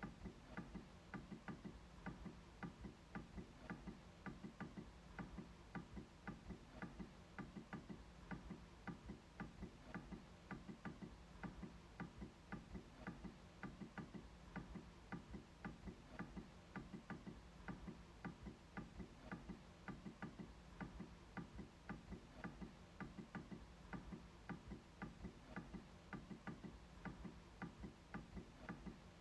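MacBook trackpad being clicked over and over, a faint, quick and even run of small clicks.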